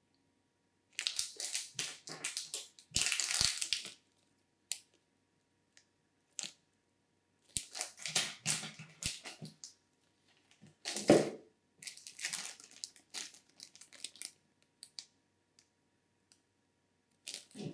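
Plastic packaging crinkling and rustling in irregular bursts as a boxed PC part is unpacked, with scattered clicks and a knock about eleven seconds in.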